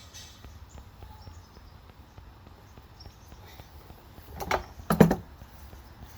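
Workbench handling noise: a low steady background with faint ticks, then two short clusters of knocks and clatter about four and a half and five seconds in, the second the louder.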